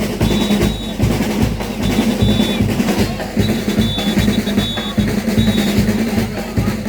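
Live drumming with snare and bass drums keeping a fast, steady beat. A high steady tone sounds over it in short stretches several times.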